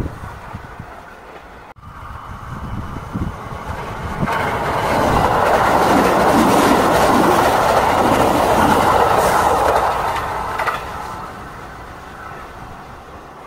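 Electric passenger train passing at close range: its noise builds over a couple of seconds, stays loud for about five seconds as the cars go by, then fades away.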